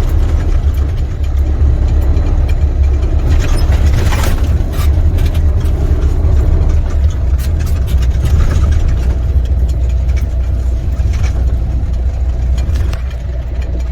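Semi truck's diesel engine running, heard from inside the cab as a steady low rumble, with a few short knocks and rattles.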